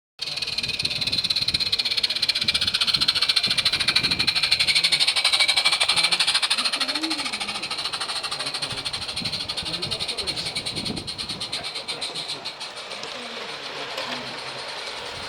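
Small 16mm-scale live-steam garden-railway locomotive hissing steam, loudest in the first half and easing off after about seven seconds. Voices talk quietly underneath.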